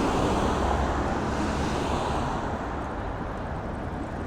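Steady road traffic noise from passing vehicles, slightly louder in the first couple of seconds.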